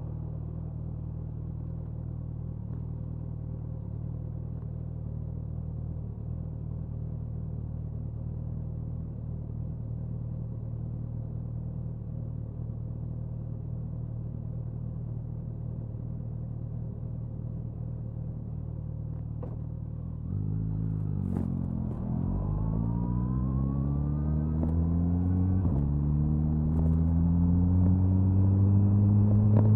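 Suzuki Hayabusa's inline-four engine and exhaust running at a steady, even pitch for about twenty seconds. Then it accelerates hard, the pitch climbing in rising sweeps broken by a couple of gear changes, growing louder toward the end.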